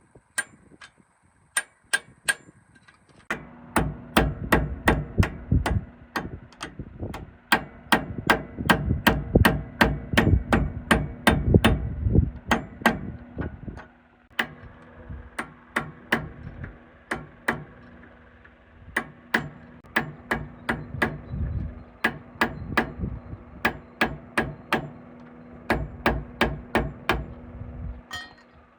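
Hammer striking over and over, about two blows a second, with a brief pause about halfway through. A steady low hum runs underneath from a few seconds in.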